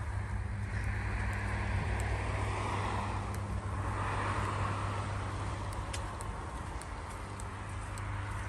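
Car on a road: a steady low rumble with tyre noise that swells over the first few seconds and fades away again.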